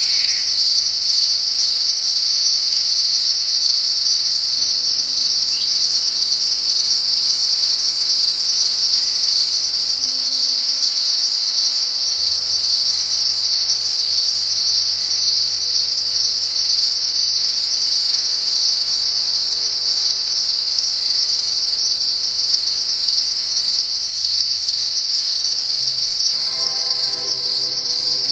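Steady insect chorus: a loud, continuous high-pitched trill that holds without a break.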